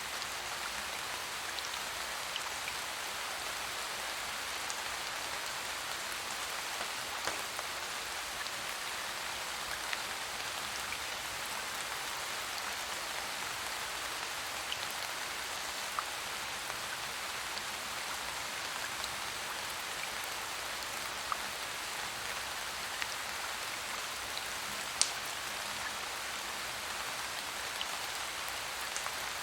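Steady rain falling, an even hiss, with scattered sharp ticks, one louder about 25 seconds in.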